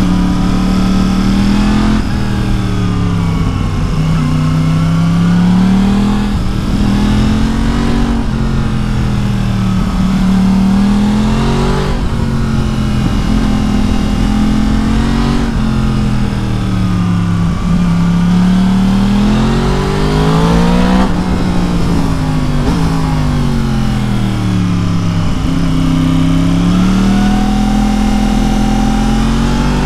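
The 2016 Yamaha MT-10's 998 cc crossplane inline-four, breathing through an Akrapovic exhaust, is ridden hard along a twisting road. The engine note climbs and drops again every few seconds as the rider accelerates out of each bend and rolls off for the next, over a steady rush of wind.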